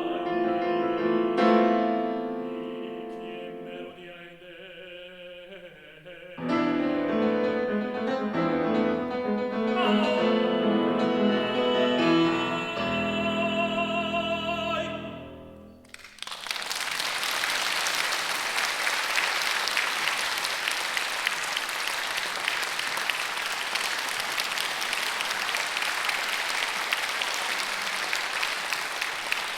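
A tenor singing a Spanish art song with piano accompaniment, ending on a held, wavering note over the piano's final chords about sixteen seconds in. The audience then applauds steadily.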